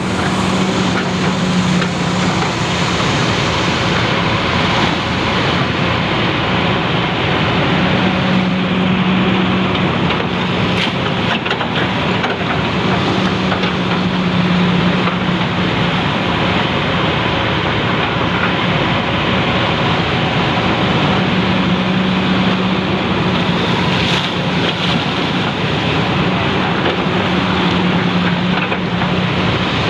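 Hydraulic excavator diesel engines running steadily. A low hum grows louder in spells of a couple of seconds every several seconds as the machines work.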